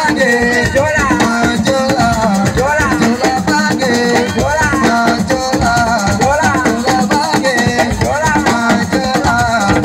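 Assiko band music: rattles and drums keep a fast, even beat under a wavering melodic lead line.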